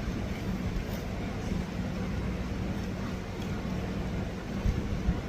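Steady low background rumble with a faint hum and no clear separate events.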